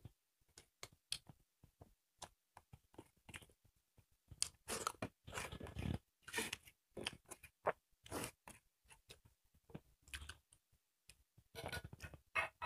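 Close-up eating sounds: chewing and crunching of sukuti (dried buffalo meat) and rice, heard as many irregular small clicks and smacks, with a couple of longer crunchy stretches midway.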